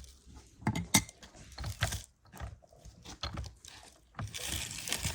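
Irregular clinking and knocking of dishes and cooking utensils. About four seconds in, a steady hiss starts.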